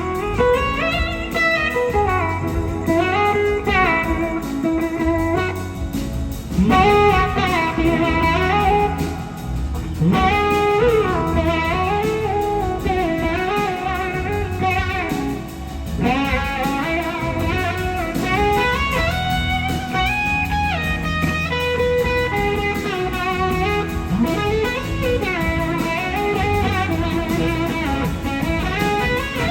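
Electric slide guitar soloing live in a blues style over the band's bass and drums, its notes gliding up and down in pitch between held tones.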